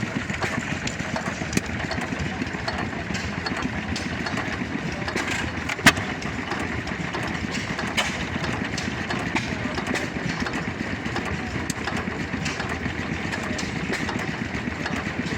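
An old engine running steadily at idle, with a sharp click about six seconds in and fainter ones around two and eight seconds.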